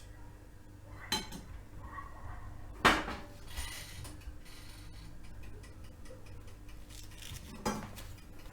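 Metal utensils knocking and clinking against cookware three times, the loudest about three seconds in, over a low steady hum.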